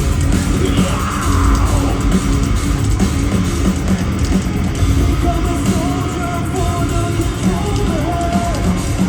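Metalcore band playing live through an arena PA: loud distorted guitars and pounding drums, with yelled and sung vocals over the top.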